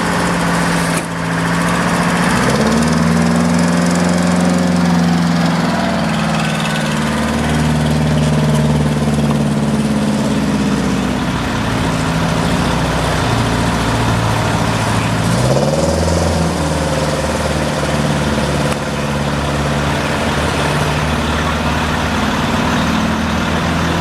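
Fire engine's diesel engine running, its pitch rising about two seconds in, dropping again around the middle and rising once more about fifteen seconds in as the engine speeds up and slows.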